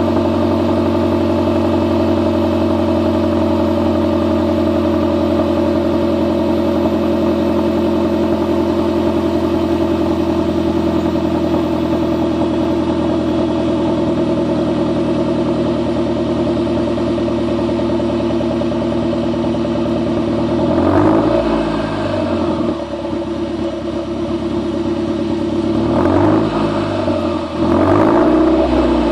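2009 Mazdaspeed 3's turbocharged 2.3-litre four-cylinder idling steadily through a straight-piped exhaust. It is then revved briefly about 21 seconds in, and twice more in quick succession near the end.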